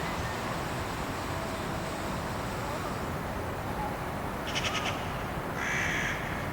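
A bird gives a short rattling call about four and a half seconds in, then one loud, harsh, crow-like caw near the end, over a steady low background rumble.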